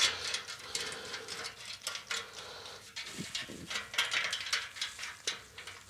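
Ratchet wrench clicking in quick, irregular runs as it tightens the bolts on an exhaust pipe clamp.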